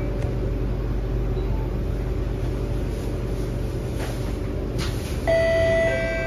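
Steady hum of an SMRT C751B train car standing with its doors shut, with two light knocks about four and five seconds in. Near the end a two-note electronic chime starts, the tone that comes before the onboard next-station announcement.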